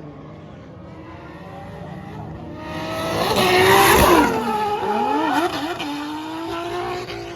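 Drift car's engine revving hard, growing louder from about three seconds in and loudest around four seconds, its pitch rising and falling, with tyre squeal as it slides, then holding a steadier note near the end.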